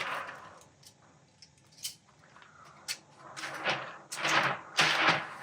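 A sheet of 216 diffusion rustling and crinkling as it is handled and fitted into a softbox frame. A few sharp clicks come in the first half, then louder bursts of rustling in the second half.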